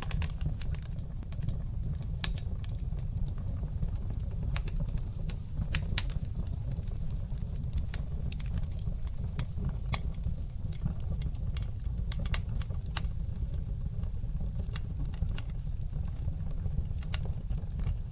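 Wood fire burning in a fireplace, crackling with frequent sharp pops and snaps, a few louder ones, over a steady low rumble of the flames.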